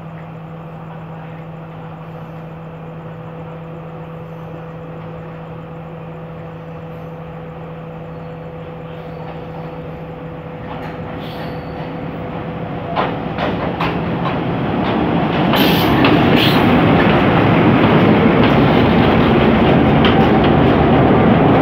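Express train double-headed by Class M5 and Class M6 diesel locomotives approaching and passing close by. A steady low hum at first grows over about ten seconds into loud, steady diesel engine and wheel-on-rail noise, with sharp clicks over the rail joints as the locomotives pass.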